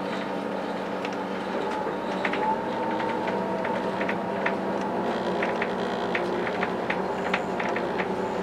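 SNCF B 81500 regional train running, heard from on board: a steady hum and whine, with scattered sharp clicks and ticks from about two seconds in.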